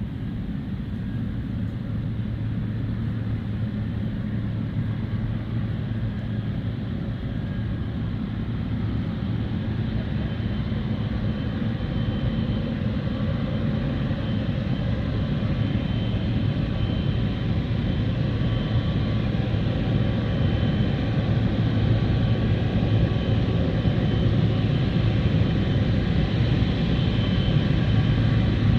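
Emirates Airbus A380-800's four jet engines running at takeoff power: a steady deep rumble with a faint high whine on top, growing slowly louder.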